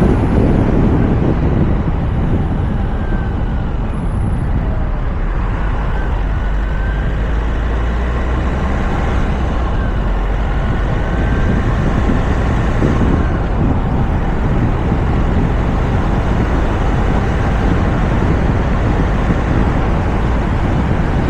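Steady wind and road noise from a moving Toyota RAV4, picked up by a camera mounted on its roof: an even rushing noise with a heavy low rumble.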